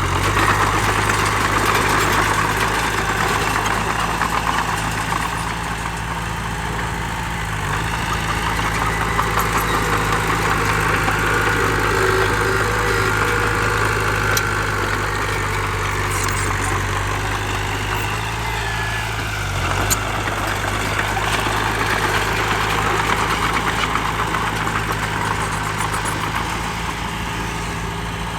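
Heavy diesel engine of an earthmoving machine running steadily. Its noise swells and eases several times over the stretch.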